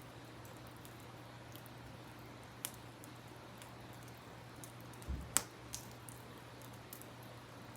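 Campfire wood crackling with a few sharp pops, the loudest cluster about five seconds in, over a faint steady hiss and low hum.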